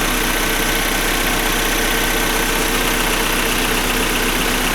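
Opel Omega B's freshly rebuilt 2.0 X20XEV 16-valve four-cylinder petrol engine idling steadily.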